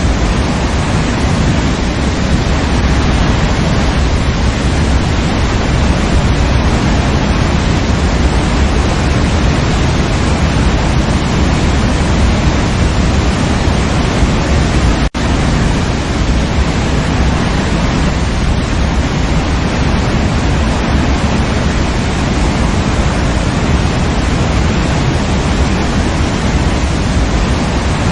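Waterfall with a steady, dense rush of falling water, heaviest in the low end. It cuts out for an instant about halfway through, then resumes unchanged.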